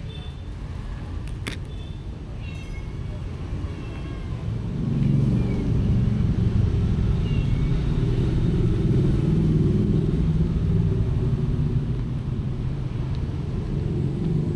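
Low rumble of a motor vehicle engine, growing louder about five seconds in and then holding steady.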